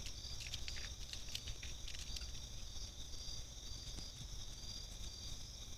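Night insects chirping in a steady high chorus with a regular pulse, with a few short faint clicks in the first two seconds.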